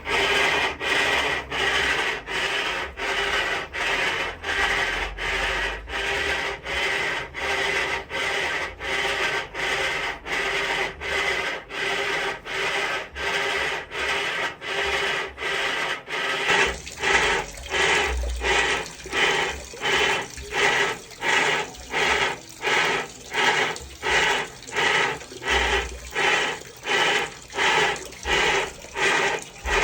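Electrolux LTD washing machine in its wash cycle, making an abnormal rhythmic rubbing, scraping noise with each stroke of the wash action, about one and a half strokes a second, with water sloshing. About halfway through, the strokes become quicker and more sharply separated.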